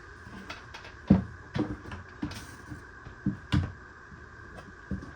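Scattered knocks and clunks of a refrigerator's bottom freezer drawer and its slide rails being handled and refitted, about half a dozen short sharp hits spread irregularly over a few seconds.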